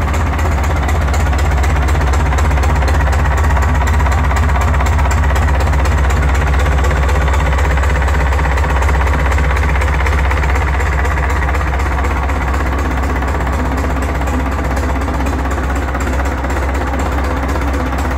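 Lister Petter marine engine built on a Ford Dover 2722E diesel, running steadily with a fast, even clatter.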